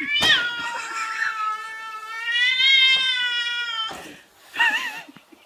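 A cat's long drawn-out meow, nearly four seconds, rising slightly and falling away, followed by a short wavering call.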